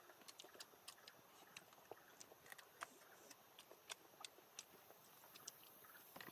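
Faint crackling of a cooking fire: scattered sharp ticks and pops at irregular intervals.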